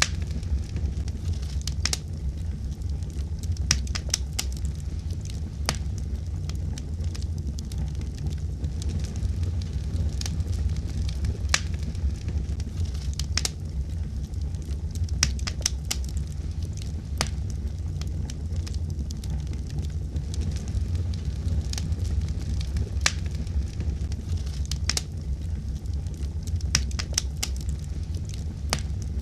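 Wood fire in a fireplace burning with a steady low rumble and irregular sharp crackles and pops.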